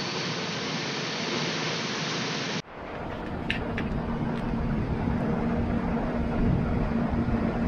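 Passenger train running, heard from its open coach door: a steady hiss of rain over the running noise, then, after a sudden cut about two and a half seconds in, a deeper rumble of wheels on track with a steady hum and a couple of clicks.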